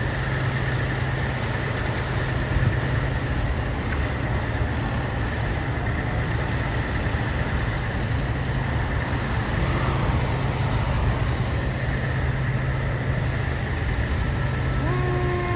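Fire hydrant being flushed, water rushing out steadily over the low, even hum of an idling fire engine. Near the end a pitched horn-like tone starts, falling slowly in pitch.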